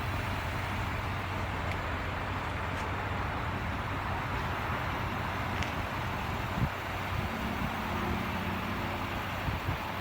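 Steady outdoor vehicle noise: a low, even rumble like road traffic, with a few faint clicks.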